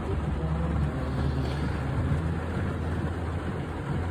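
Heavy rain falling steadily on a parked vehicle's roof and windows, heard from inside the closed cab, over the low, steady hum of the idling engine.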